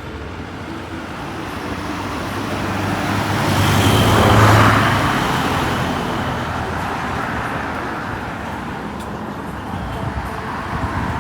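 A motor vehicle driving past on the road, its engine and tyre noise building to the loudest point about four seconds in and then fading away.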